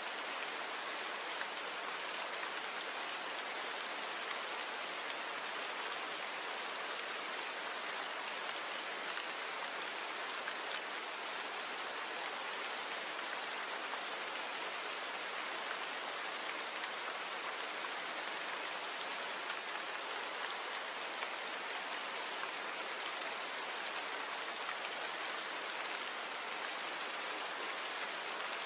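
Steady rain falling, an even hiss of many drops with no thunder or single loud impacts.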